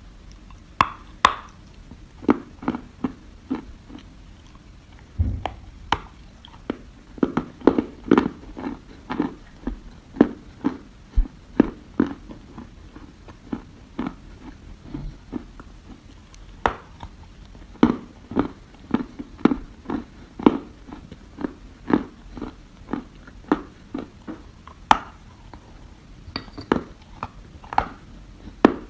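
A person biting and chewing lumps of dry soil close to the microphone: a string of sharp, irregular crunches, several a second at times.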